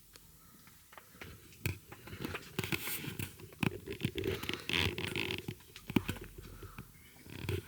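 Handling noise: rustling and scraping with many scattered clicks and taps, as things are picked up and moved. It starts about a second and a half in.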